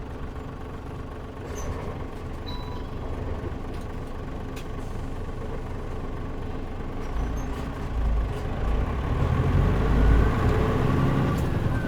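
Onboard running sound of a Mitsubishi Fuso KL-MP37JM non-step city bus: the diesel engine and drivetrain under way, with a low rumble that grows louder and deeper about seven seconds in as the engine pulls harder.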